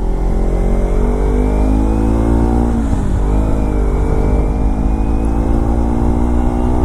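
Motorcycle engine accelerating, its pitch rising, dropping with an upshift about three seconds in, then rising again, over heavy low wind rumble.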